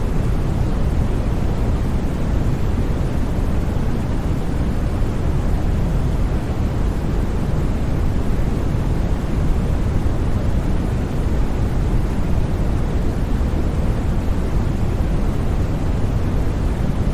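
Steady generated white noise: an even, unchanging hiss-like rush, heavier in the low end, with no breaks or sudden sounds.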